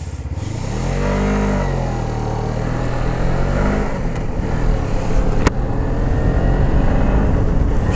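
Motorcycle engine pulling away and accelerating, its pitch rising and dropping back at gear changes about a second and a half and again about four seconds in, then running on at speed with a rushing, noisy wash. One sharp click about five and a half seconds in.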